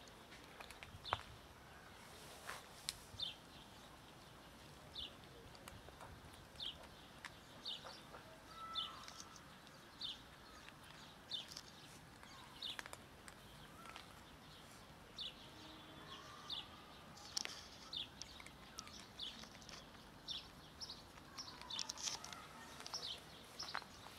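A small bird chirping over and over, one short high chirp about once a second. Cats crunch dry kibble close by, and now and then there is a sharp crunch.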